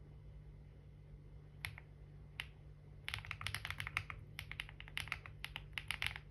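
Typing on a computer keyboard: two single keystrokes, then a quick run of keystrokes from about halfway on, over a faint steady low hum.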